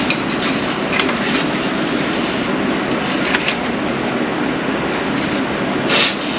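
A few light metallic clinks of hand tools and parts against the car's engine, with a louder clank near the end, over a steady rushing background noise.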